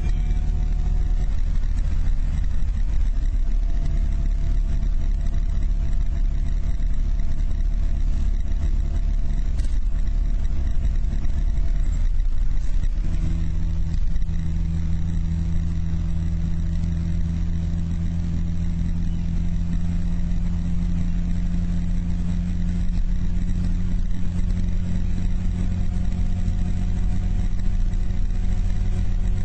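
Car engine running steadily under way, with road noise, heard from inside the moving car. About 13 seconds in, the engine note shifts and then holds steadier and stronger, as the revs change.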